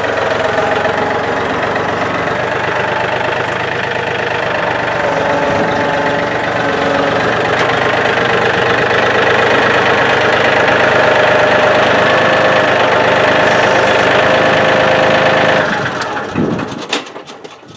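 John Deere compact tractor's Yanmar diesel engine running steadily, then dying away near the end as it shuts off.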